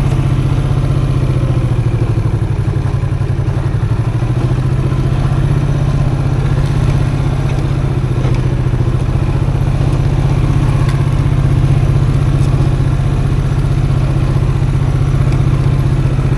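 Custom motorcycle engine running steadily under the rider, its pitch dropping briefly about three seconds in and then picking up again, with light clattering from the bike on a rough dirt track.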